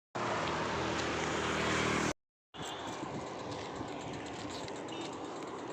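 Motor vehicle running close by, a loud noisy rush over a steady low engine hum, cut off abruptly about two seconds in. After a brief silence comes quieter outdoor traffic background noise.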